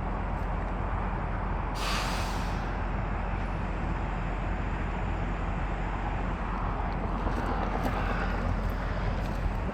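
Idling diesel truck engines, a steady low hum, with a short sharp hiss of air about two seconds in.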